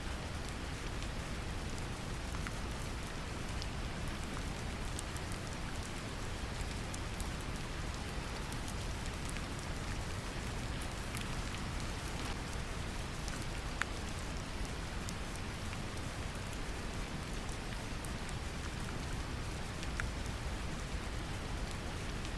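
Gentle rain mixed with a steady low brown-noise rumble, with scattered small drop ticks.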